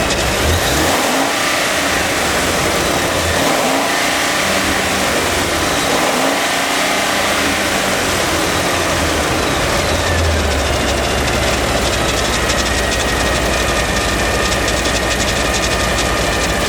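Ford 6.8-litre V10 gasoline engine running. It is revved up and down repeatedly for the first several seconds, then drops back to a steady idle about ten seconds in.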